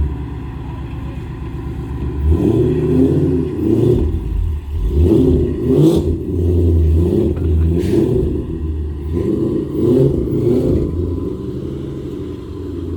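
Motor vehicle engine running, revving up and easing off several times.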